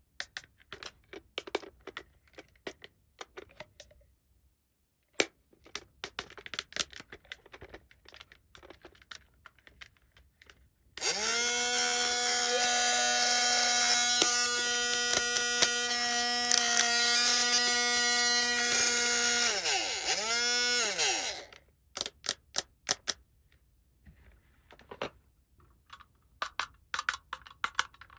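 Light clicks and taps of small plastic toy parts being handled. About eleven seconds in, a small battery-powered motor starts a steady whirring hum, then winds down in pitch and stops after about ten seconds, with one brief restart as it spins down. More clicking follows.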